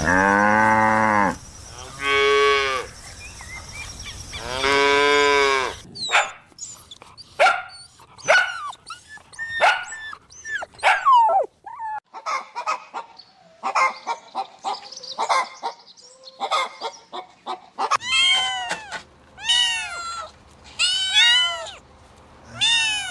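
A cow mooing three times, each moo a long, low call, over the first six seconds. A run of short, sharp animal calls follows, and then a series of rising-and-falling cries.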